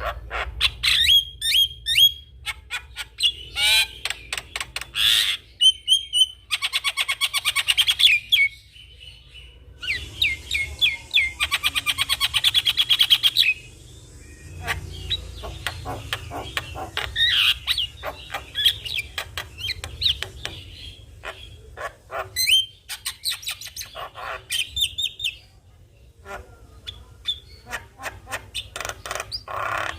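Javan myna singing in lively bursts of harsh chattering and clicking notes mixed with short whistles, with brief pauses between bursts. Two longer runs of fast repeated notes come in the first half.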